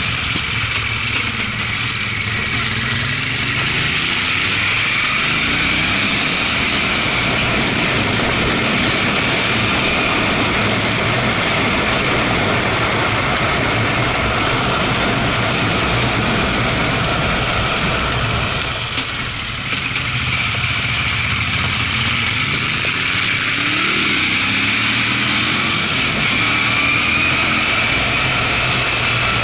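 Moto Guzzi California 1400 V-twin pulling hard up a mountain road, with wind rushing over the microphone. The engine note rises twice as the bike accelerates, a few seconds in and again about three-quarters through, with a brief drop in loudness just before the second rise.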